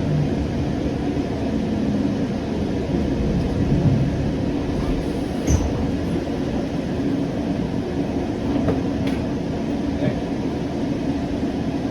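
Siemens S700 light rail car running, heard from inside: a steady rumble of wheels and running gear with a constant hum over it. There is one sharp click about five and a half seconds in, and a couple of fainter ticks later.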